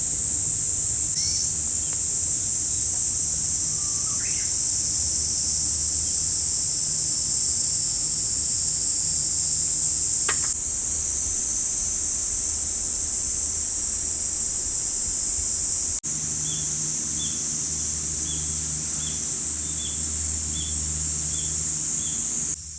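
A summer insect chorus keeps up a loud, steady high-pitched buzz. A bird calls now and then, and near the end it gives a quick run of about eight short chirps.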